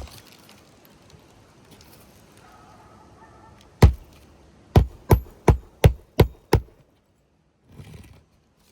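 Hammer driving a roofing nail through an asphalt shingle: one blow, then a run of six quick blows about three a second, some with a short metallic ring.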